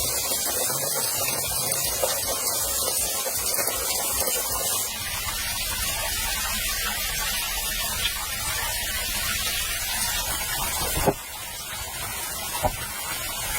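Steady rushing hiss of running water, shifting abruptly in tone twice, with a few short sharp knocks near the end.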